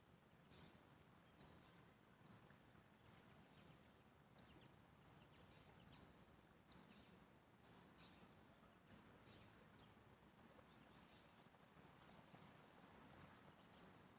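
Near silence, with faint, short, high chirps repeating about once or twice a second from a small bird calling.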